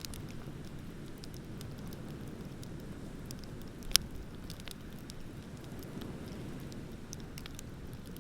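Wood bonfire crackling, with scattered small pops and one sharp, loud pop about four seconds in, over a steady low rumble of ocean waves.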